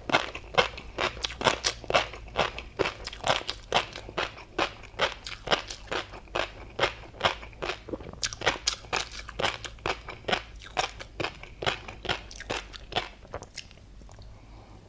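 Close-miked chewing of a mouthful of tobiko roe with a crunchy seafood topping: a rapid run of crisp crunches and pops, several a second, easing off near the end.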